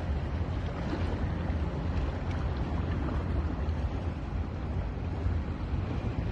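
Sea surf washing on a beach, a steady rushing noise, with wind rumbling on the microphone.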